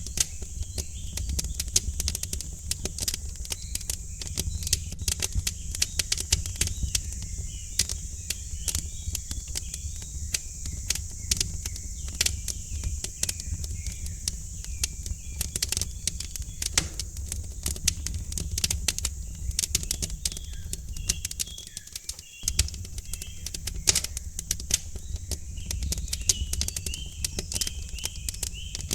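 Wood fire crackling with many sharp pops over a low, steady rumble, while small birds chirp in the background.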